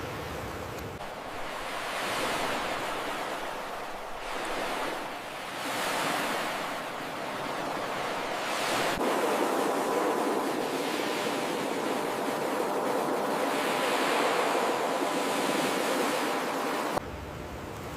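Ocean surf: waves breaking and washing ashore, the rush of water swelling and fading every couple of seconds.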